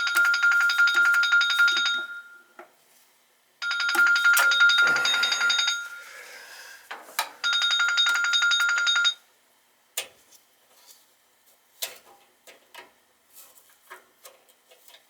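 A telephone ringing three times, each ring lasting about two seconds with a rapid trilling warble, followed by a scatter of light clicks and taps.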